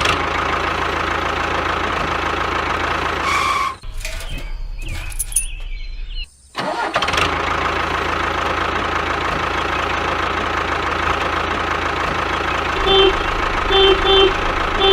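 Small engine of a DIY mini bulldozer running steadily, broken by a couple of abrupt cuts, with a few short beeps near the end.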